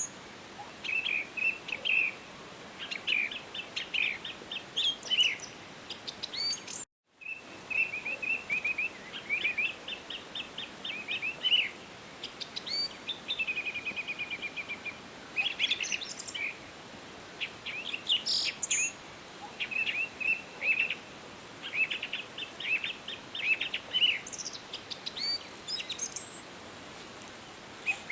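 Songbirds singing in a forest: repeated chirps, quick trills and a few higher calls over a soft steady hiss, the sound cutting out completely for a moment about seven seconds in.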